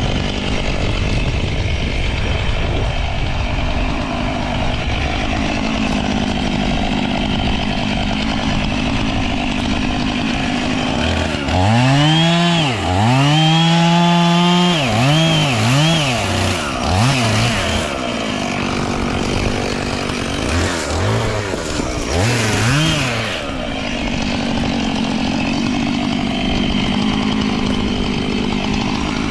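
Two-stroke chainsaw revving in repeated throttle bursts, its pitch rising and falling, about halfway through and again briefly later, over a steady rushing noise.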